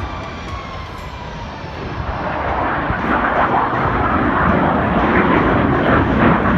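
Jet aircraft engine noise, a rushing sound that swells steadily louder from about two seconds in.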